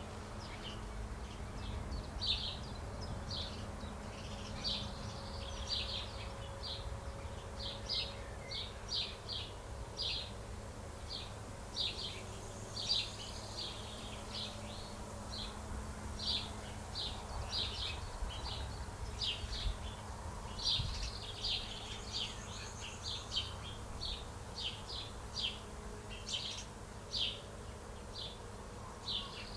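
Small birds chirping: many short, quick chirps in an irregular stream, several a second, over a steady low hum.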